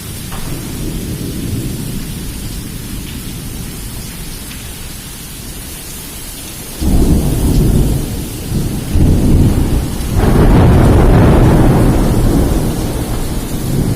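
Heavy rain hissing steadily with thunder: a low rumble that breaks loudly about seven seconds in, surges twice more, then eases off.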